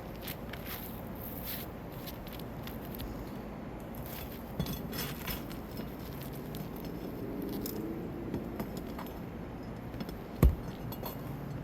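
Hand tools scraping and clinking against roof shingles as nails are worked out, with one sharp knock about ten seconds in.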